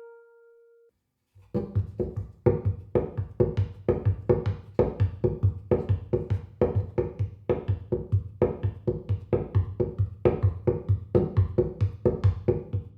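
A fast, even rhythm of sharp, knocking percussion hits, several a second, starting about a second and a half in after a held musical tone fades out.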